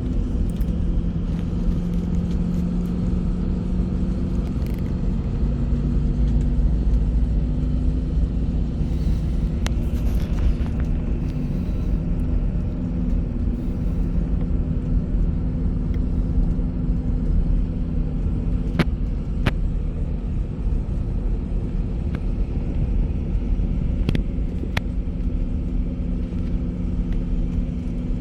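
Bus on the road: a steady low rumble of engine and road noise with a constant engine hum, and a few sharp clicks or rattles.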